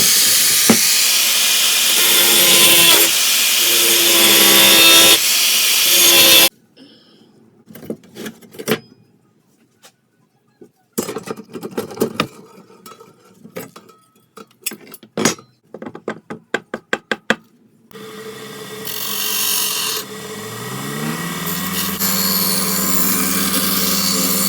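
Metalworking tool sounds while shaping old saw-blade steel into a knife. It opens with about six seconds of loud rasping abrasive noise, then comes a run of sharp strikes on the metal. Near the end a power tool's motor starts, spins up with a rising hum and runs steadily.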